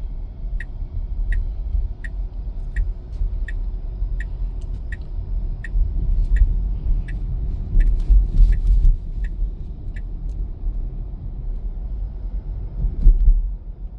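Car turn-signal indicator ticking about 1.4 times a second over steady road rumble inside the cabin, as the car steering itself signals a lane change to the right; the ticking stops about ten seconds in. A low thump near the end.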